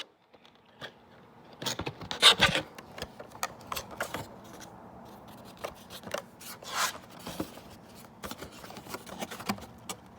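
A Funko Pop box being handled and opened: irregular rustling, scraping and clicks of the packaging, loudest about two seconds in.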